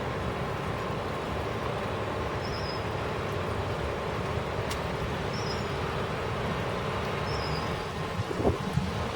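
Thunderstorm: a steady rushing rumble of heavy rain and wind. Near the end, uneven crackling bursts begin as thunder starts to break.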